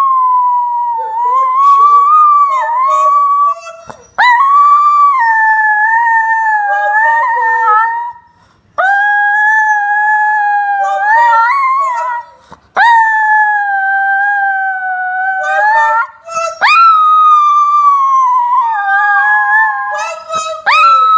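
Chinese Crested Powderpuff dog howling on command. She gives about five long, wavering howls, each starting with a quick upward swoop, with short breaks between them.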